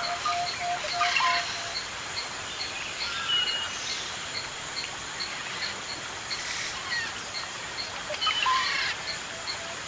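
Several birds calling. A rapid series of low notes, about five a second, runs near the start and returns near the end. A high note repeats about three times a second throughout, with scattered whistles and chirps between.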